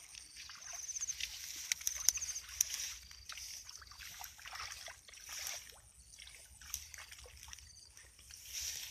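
Water sloshing and splashing in short, irregular bursts, with a steady high whine behind it.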